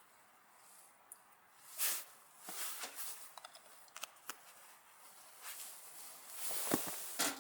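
Rustling and handling noises: a few short swells of rustle with scattered light clicks, the loudest near the end.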